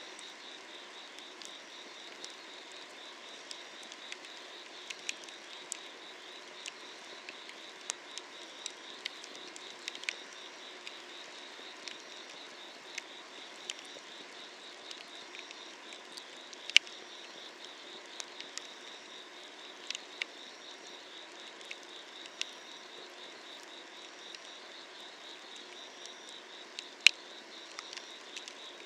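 Wood fire crackling under an iron cauldron, with scattered small snaps and two much sharper pops, one near the end. Night insects chirp steadily behind it: a fast pulsing trill and a short chirp repeated about every second and a half.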